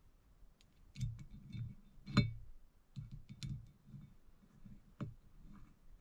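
Small carburetor parts clicking and tapping as they are handled during reassembly, with a sharper knock about two seconds in and another near five seconds.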